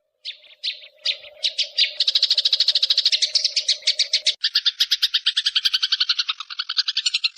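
Songbird song: a few separate high chirps, then a fast, even chattering trill of about ten notes a second. About four and a half seconds in it changes to a lower, fuller trill.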